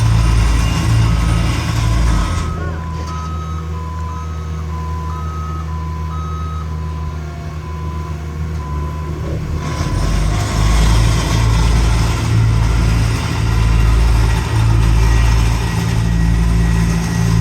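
Heavy paving machinery running, with a backup alarm beeping in alternating tones through the first half. About ten seconds in, a deep rhythmic engine throb grows louder again.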